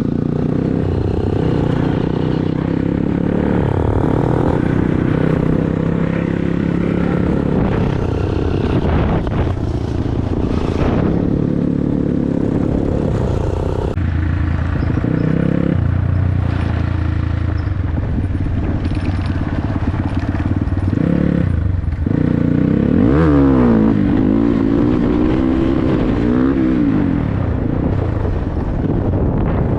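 Dirt bike engine running under way, its revs rising and falling, with a quick run of revs up and down a little after twenty seconds in.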